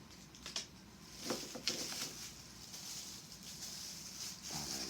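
Rustling of small plastic packaging with a few light clicks, as a packet of small metal screws and clips is handled.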